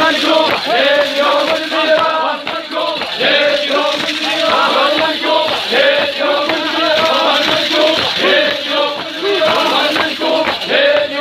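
A crowd of men chanting together, answering the lead chanter's verse with the refrain of an Iraqi tribal hosa chant. Many voices overlap without a pause.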